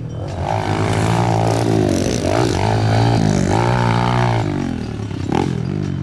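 Pit bike engine revving hard and easing off several times in a row, its pitch climbing and dropping as the bike is ridden around a dirt track.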